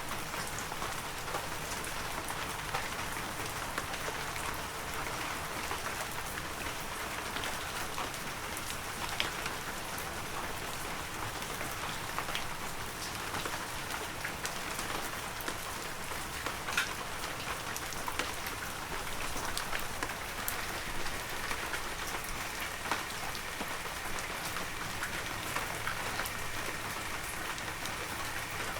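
Heavy rain falling steadily, a dense hiss of rain with many individual drops pattering on surfaces.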